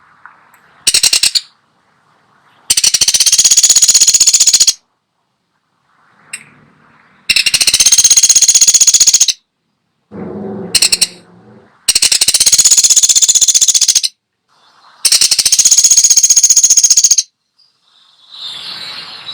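Woodpecker giving loud, very rapid rattles, each about two seconds long, repeated every few seconds with short silences between. A lower, shorter sound comes in the middle.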